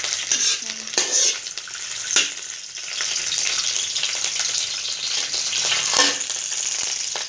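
Garlic, curry leaves and star anise sizzling in hot oil in a steel pan, stirred with a spatula, with a few sharp clicks of the spatula against the pan.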